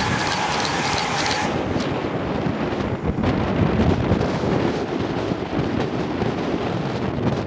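A GWR Class 800 Intercity Express Train passing at speed: a rushing hiss with a steady whine that stops about a second and a half in as the last coach clears. After that, wind buffets the microphone with a gusty rumble.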